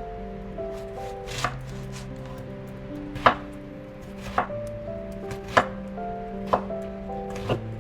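Knife chopping on a cutting board in slow, single strokes about once a second, each a sharp knock, over soft sustained background music.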